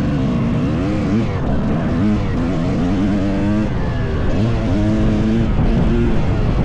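Two-stroke dirt bike engine under hard riding, its pitch climbing and falling back five or six times as the throttle is worked on and off.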